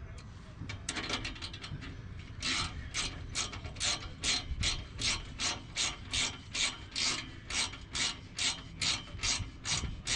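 Ratcheting wrench clicking as it tightens a bolt on the exhaust. A few irregular clicks come first, then from a couple of seconds in a steady rhythm of ratchet strokes, about two and a half a second.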